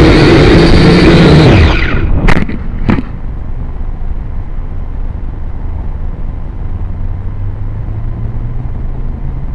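Syma X5C quadcopter's motors whining, then winding down in pitch and stopping about two seconds in. Two sharp knocks follow, then a steady low wind rumble on the microphone.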